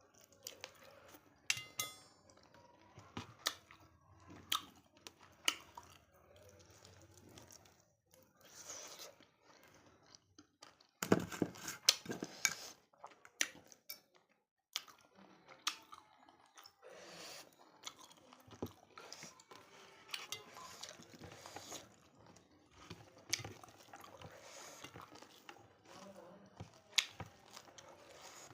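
Close-up chewing and mouth sounds of eating mutton curry with rice: wet smacks and many sharp clicks. A louder run of clicks comes about eleven seconds in.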